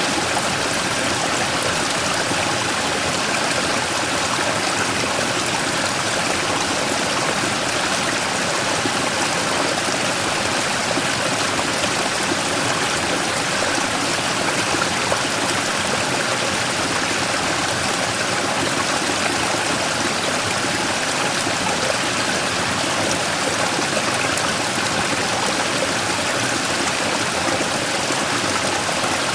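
Mountain stream running steadily over a large rock, a continuous rushing and splashing of water.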